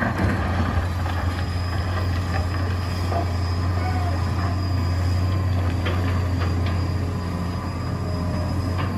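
Diesel engine of a Hitachi EX200 hydraulic excavator running with a steady low drone, with a faint thin high tone above it and a few light knocks.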